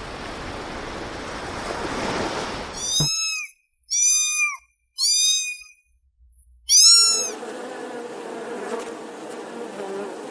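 Insect-like buzzing for about three seconds, then four short, high-pitched animal calls with hard silences between them, then a steady buzzing hum again.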